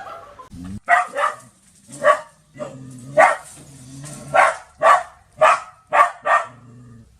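A dog barking repeatedly, about nine sharp barks at an uneven pace.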